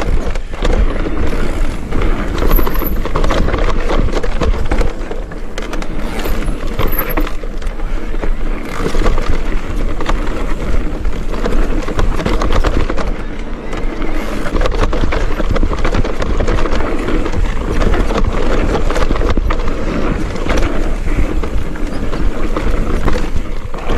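Mountain bike descending a rough dirt trail: steady tyre and chassis rattle with many small knocks, and wind buffeting the microphone.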